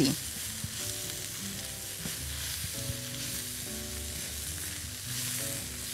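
Strips of boiled beef and sliced onions sizzling steadily in a hot oiled wok while a wooden spatula stirs and tosses them.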